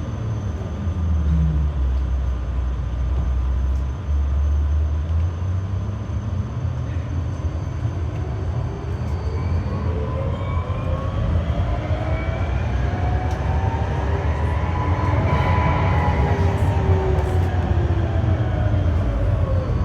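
GTZO tram running, heard on board: a steady low rumble with the traction drive's whine, which falls in the first couple of seconds, rises from a little before halfway as the tram speeds up, peaks about three quarters in and falls again as it slows.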